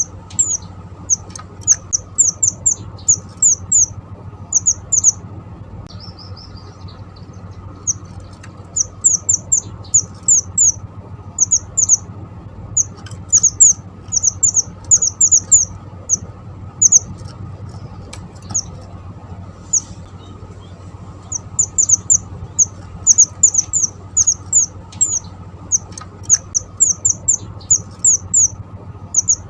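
Small songbird, the Javanese 'mantenan', calling persistently: runs of short, sharp high chirps several to a second, broken by brief pauses, over a steady low hum.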